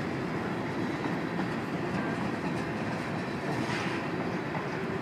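CSX freight train's flatcars, loaded with steel containers, rolling steadily past with a constant rumble of wheels on the rails.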